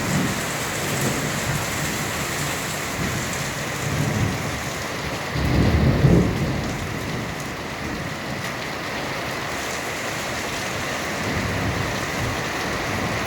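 Heavy rain pouring steadily, with a low rumble of thunder swelling about five to six seconds in.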